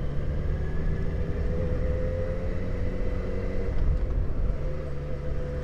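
Motorcycle engine running at a steady speed while riding, with wind and road rumble. The lower engine tones drop away briefly a little before the four-second mark and then return.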